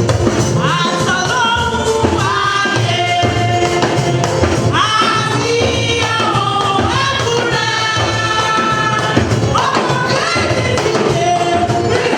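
Gospel singing by a choir with drums and tambourine, in phrases that each begin with a rising swoop, about every five seconds.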